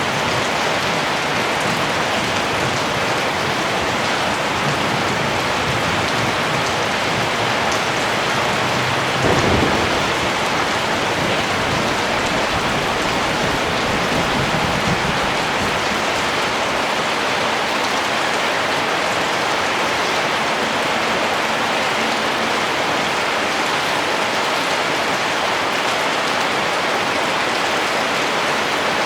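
Steady rain falling, with a brief low rumble of thunder about a third of the way through.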